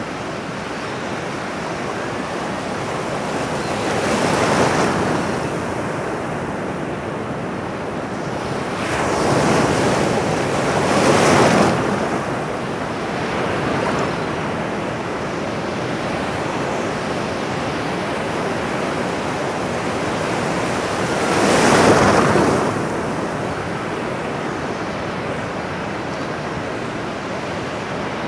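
Ocean surf: a steady wash of water with waves swelling and breaking four times.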